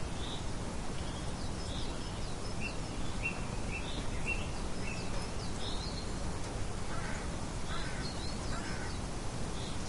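Steady light wind noise with birds chirping in short high calls throughout, and a few lower calls about two-thirds of the way in.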